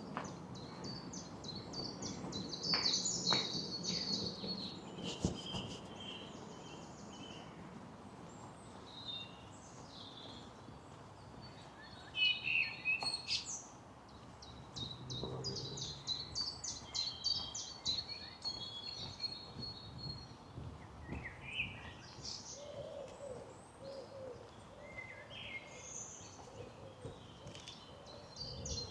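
Woodland songbirds singing, several at once, with fast, high trilled phrases that come and go. In the second half a lower call repeats several times under them.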